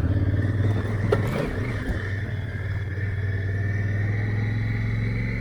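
Honda Africa Twin's parallel-twin engine running under load while the motorcycle is bogged in soft sand; the engine note dips and wavers about a second and a half in, after a sharp knock, then holds steady.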